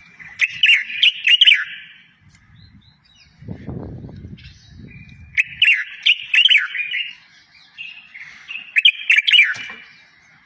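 A songbird singing three short phrases of quick, high chirps and sweeping notes, one near the start, one in the middle and one near the end, used as tutor song for caged goldfinches and canaries.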